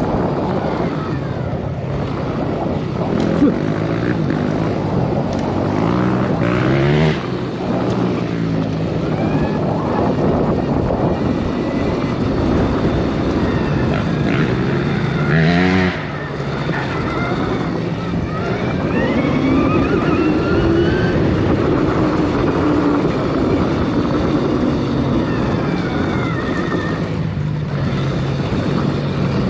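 Arctic Leopard XE Pro electric dirt bike's motor whining as it is ridden, its pitch sweeping up sharply under throttle twice, about seven and fifteen seconds in, over a steady rush of noise.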